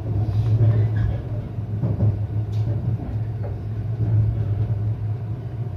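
Steady low rumbling hum inside a local electric train carriage, with a few faint clicks over it.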